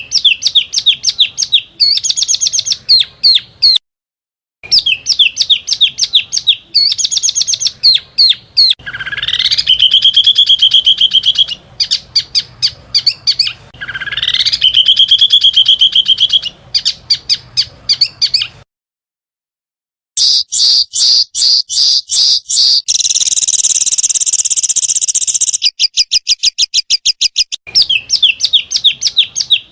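Small songbirds singing fierce, rapid 'tembakan' phrases: fast trills of sharp, high repeated notes, twice sweeping upward into a held buzzy trill, and a dense high trill near the end. The phrases are spliced together with abrupt cuts, going briefly silent twice.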